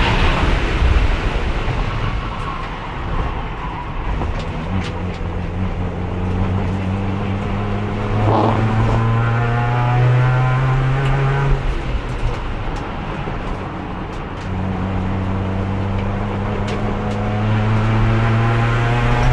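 Racing car's engine under load from onboard, held in fourth gear by a failing transmission that has lost third and will not shift at speed. Its pitch climbs slowly as it pulls, falls away when the driver lifts about twelve seconds in, and climbs again from about fourteen seconds.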